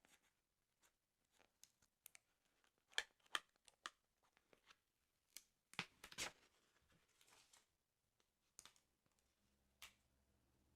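Quiet paper handling on a football sticker album: scattered crinkles and taps, with a few sharper crackles about three seconds in and again around six seconds, followed by a short rustle.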